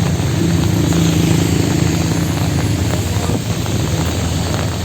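Street traffic in the rain: a vehicle engine running steadily with a low hum, over a constant hiss of rain and road noise.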